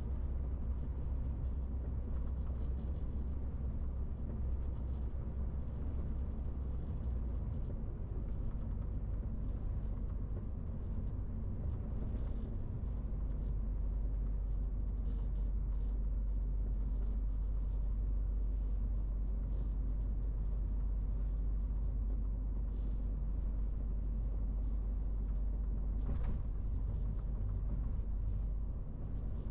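MAN TGX 18.470 truck's 12.4-litre inline-six diesel running under way: a steady low drone whose note shifts a couple of times early on, and grows slightly louder about halfway through. A single short click sounds near the end.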